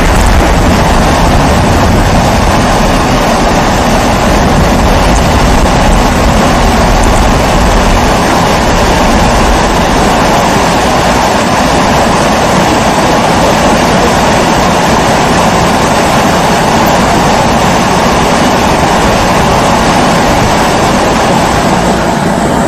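Kerosene pressure stove (primus-type babour) burner running with a steady, even rushing noise.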